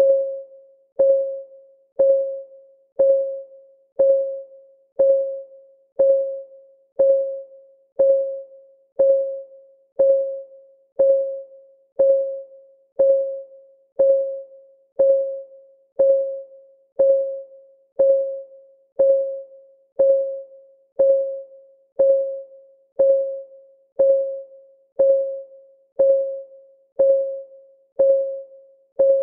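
Countdown timer's clock ticking sound: short, pitched ticks at an even one per second, each fading quickly.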